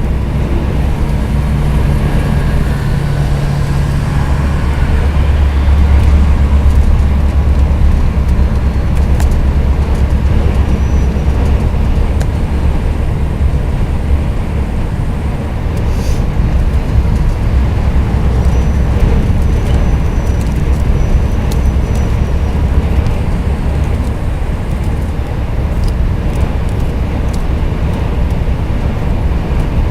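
Scania R420 truck's six-cylinder diesel running under way: a steady low engine drone with road noise.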